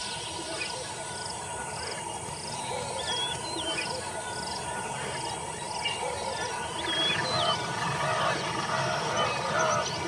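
Dawn bush ambience with birds calling: a high chirp repeated about twice a second, short whistled calls that drop in pitch, and more warbling calls in the second half.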